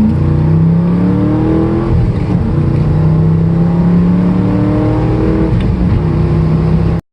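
Car engine under hard acceleration, its pitch climbing and dropping back at each gear change, about two seconds in and again near five and a half seconds. It cuts off suddenly near the end.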